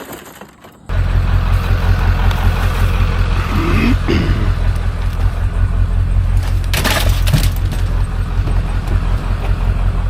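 Motor vehicle driving, a loud steady low rumble of engine and road that sets in suddenly about a second in. There is a short squeak around four seconds and a sharp knock near seven seconds.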